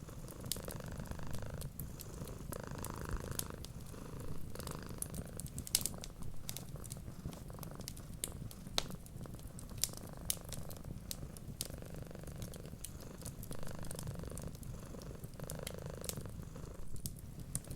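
Domestic cat purring steadily, with a soft swell every couple of seconds, mixed with the sharp, irregular crackle and pops of a wood fire.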